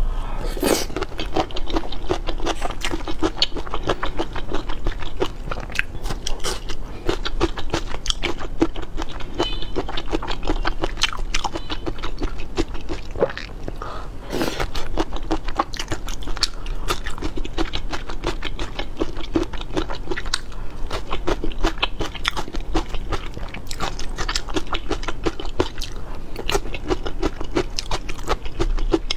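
Close-miked eating: steady crunchy chewing and biting of food, a dense run of crisp crackles and clicks.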